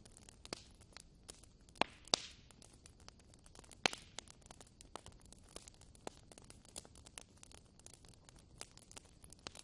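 Wood fire burning in a fireplace, crackling with a steady scatter of small pops and snaps. Three louder pops come at about two, two and a half and four seconds in.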